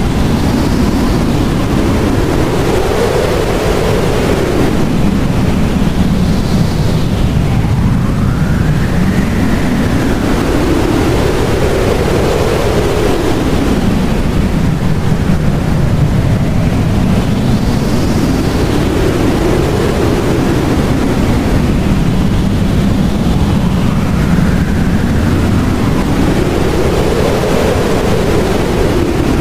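Blizzard wind blowing hard with a steady deep rush, overlaid by gusts whose pitch slowly rises and falls every several seconds.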